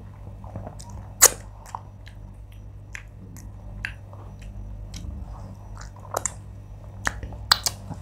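Close-miked chewing of food, with sharp wet mouth clicks and lip smacks scattered through, the loudest about a second in and several more near the end. A low steady hum runs underneath.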